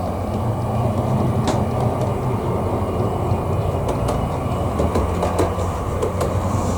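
OO gauge model train running on the layout: a steady low hum with a few sharp clicks from the wheels over the track.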